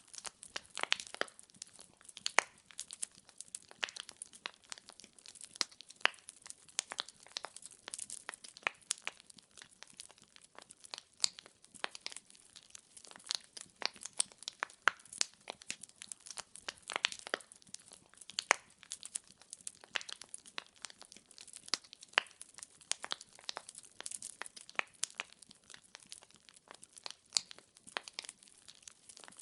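Burning firewood crackling: a dense, irregular run of sharp pops and snaps, with no music.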